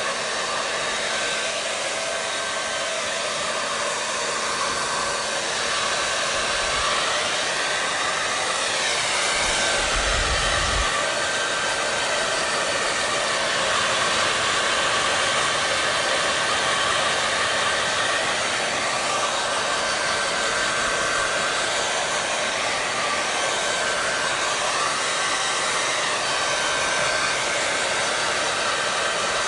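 Hair dryer running continuously: a steady rush of blown air with a faint motor whine, the tone of the rush slowly sweeping up and down now and then. A brief low bump sounds about ten seconds in.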